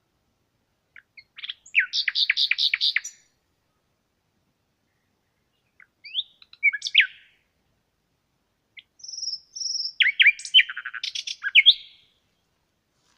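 Birds singing in three separate phrases of quick chirps, whistles and trills, with silent gaps between the phrases.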